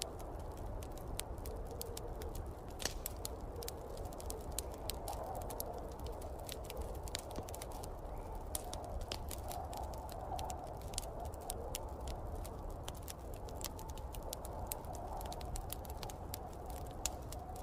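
Wood fire crackling in a fireplace, with many irregular sharp pops and snaps, over a steady low rush of snowstorm wind.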